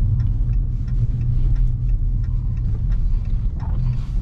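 Steady low rumble of a Dodge Charger Scat Pack driving on a snowy road, heard from inside the cabin, with faint light ticks scattered through it.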